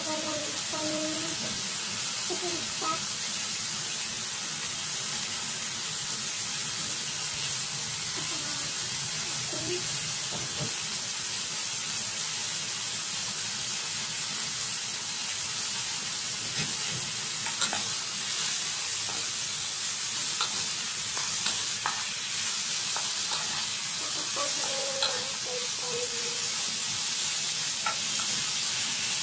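Bottle gourd strips sizzling in hot oil in a pan: a steady frying hiss, with a few light clicks in the second half.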